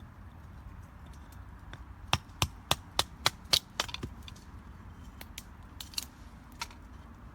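A quick run of about eight sharp knocks, a little over three a second, followed by a few fainter, scattered knocks.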